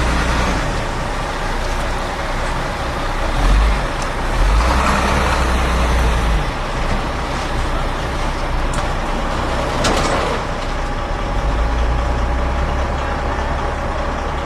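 A heavy vehicle's engine running steadily among street noise, with a low rumble that swells and fades. There is a single sharp click about ten seconds in.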